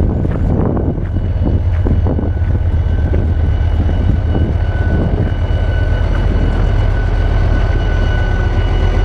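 Passenger train running: a loud, steady low rumble with irregular rattling and clatter, and a faint steady whine above it.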